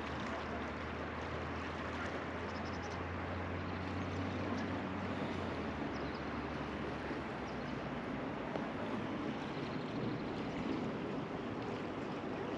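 Steady rush of the Truckee River's flowing water around a drifting raft. A low hum underneath fades out about six seconds in.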